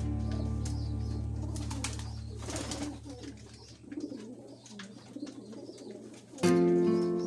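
Background music fades out, leaving racing pigeons cooing. Music with plucked guitar starts again near the end.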